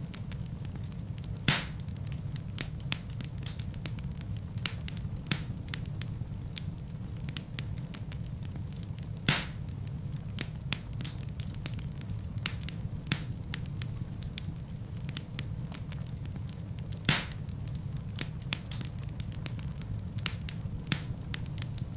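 A fire burning in a fireplace, crackling: a steady low rumble of flames with many small crackles throughout, and three louder pops about a second and a half in, about nine seconds in and near seventeen seconds.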